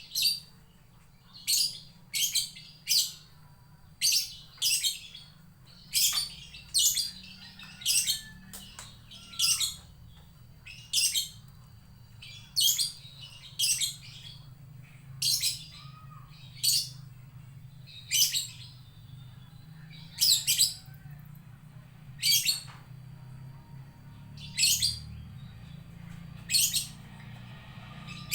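Lovebird giving short, shrill, piercing calls, repeated every second or so, some in quick pairs or threes: the calls of a lovebird looking for its companion. A faint steady low hum runs underneath.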